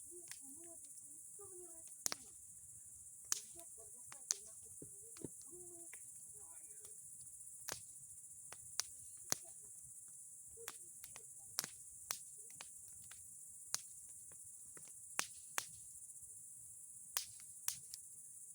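Wood bonfire crackling, with sharp irregular pops about one or two a second, over a steady high chirring of crickets.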